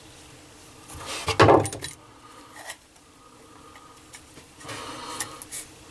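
Scraping and rubbing of plumbing parts being handled, a loud rub about a second in and a softer one near the end.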